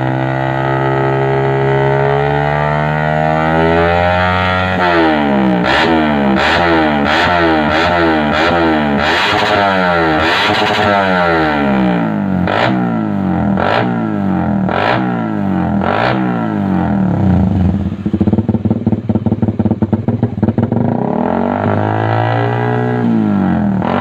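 Motorcycle engine on a racing exhaust, revved over and over: the pitch climbs and drops about once a second for some seconds, then breaks into a rapid stutter for a few seconds before one more rev near the end.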